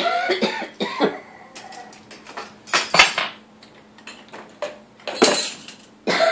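Cutlery and dishes clinking and knocking as a dishwasher is unloaded: separate clatters, the loudest about three seconds in and another group about five seconds in.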